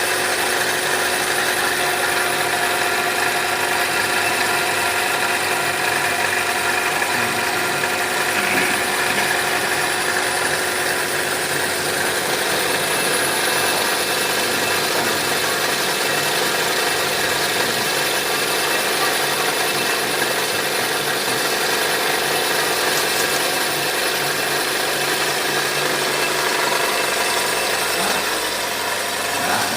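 Cylinder boring machine running steadily as its cutter bores out a motorcycle engine cylinder: a constant motor hum with several steady tones over an even wash of noise.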